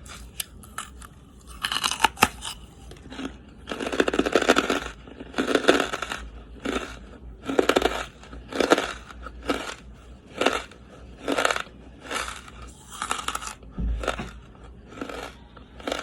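Charcoal being bitten and chewed close to the microphone: brittle crunching that comes in short bursts about once a second.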